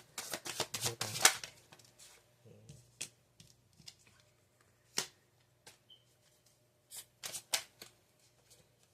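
Tarot cards being handled: a quick flurry of cards riffling and rustling for the first second and a half, then a few separate sharp card snaps and taps as cards are pulled and laid down, with a short cluster of them near the end.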